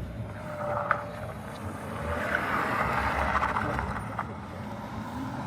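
A BMW accelerating hard, its engine and tyre noise swelling to a peak in the middle and then fading away. Its traction control is still on, which stops the car from sliding.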